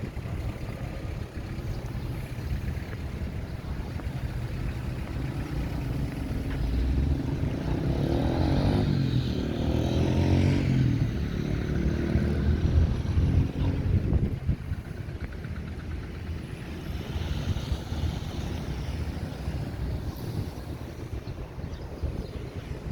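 Street traffic on a city avenue: a steady low rumble of engines and tyres, with a motor vehicle passing close by from about a third of the way in to past the middle, its engine note rising and falling as it goes by, then the traffic settling back to a lower hum.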